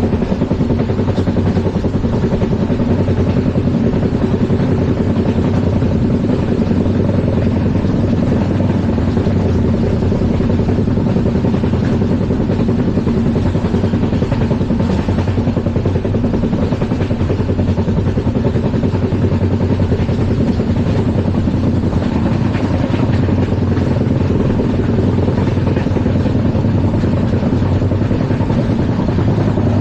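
LHB passenger coach running at speed on the rails: a loud, steady rumble of wheels on track with a fast, even rattle and a low hum, unchanging throughout.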